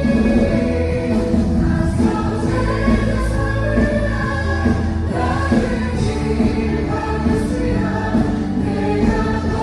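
Live choir singing a Korean worship song with band accompaniment: long held notes over a steady bass line, with a cymbal-like wash now and then, heard through an iPhone's room-ambience recording.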